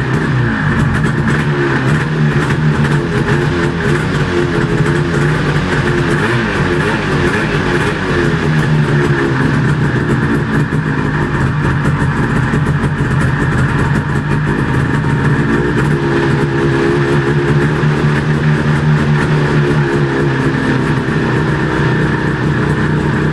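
Vintage Arctic Cat Panther snowmobile's two-stroke engine running after a cold start, its pitch rising and falling as the throttle is blipped.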